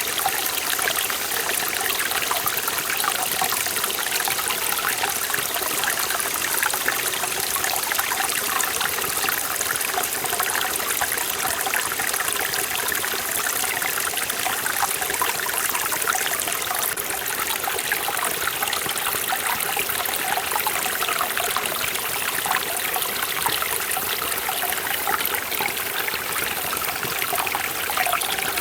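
Mountain stream in a forest valley running steadily over rocks, a dense splashing and burbling rush of water with no pauses.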